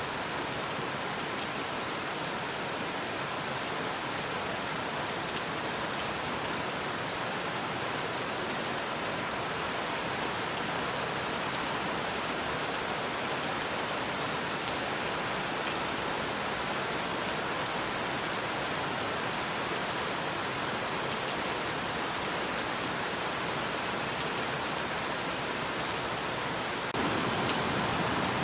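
Steady rain falling on a surface: a dense, even hiss with fine patter of drops. Near the end it turns a little louder and fuller.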